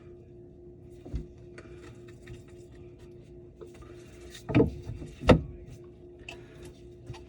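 Two loud knocks a little past the middle and a smaller one about a second in, with light clicking and rustling, over a steady hum.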